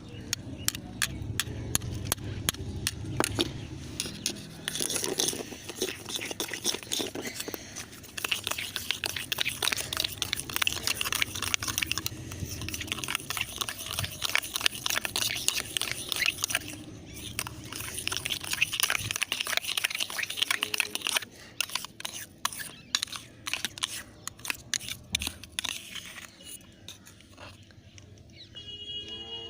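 A gritty mixture of sugar and shampoo being stirred and scraped by hand: a rapid run of crunching, scratchy clicks that thins out after about 20 seconds.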